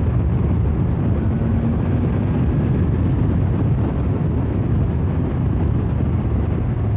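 BMW S1000XR motorcycle's inline-four engine running at a steady road speed, under heavy wind rush on the microphone.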